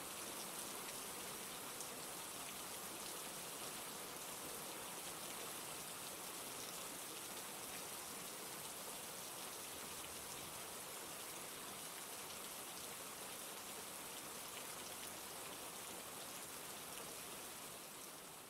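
Steady rain falling, a dense patter of drops over an even hiss, easing slightly near the end.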